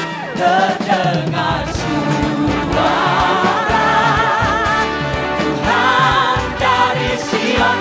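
Live gospel worship music: a praise song sung by a worship team and congregation with vibrato over a full band with drums and a steady beat.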